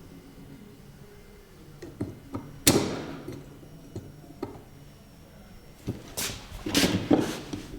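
Metal parts and tools being handled on a workbench during work on a small bench vise: scattered light clicks and knocks, one sharp clank about a third of the way in that rings briefly, and a quick run of clanks near the end.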